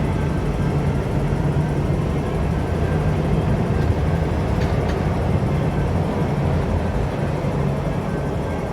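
MTR Q-Train electric multiple unit running steadily along the track: a continuous rumble with a constant low hum, and a few faint high clicks about halfway through.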